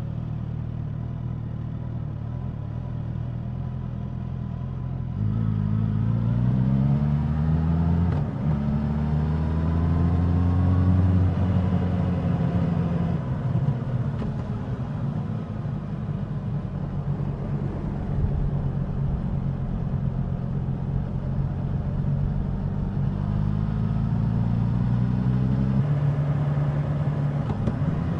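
Suzuki GSX-S1000's inline-four engine and exhaust heard from the bike while riding. It runs steady and low at first; about five seconds in it pulls up through the revs with a gear change midway, then eases off. It runs steady again, and near the end climbs once more with another upshift.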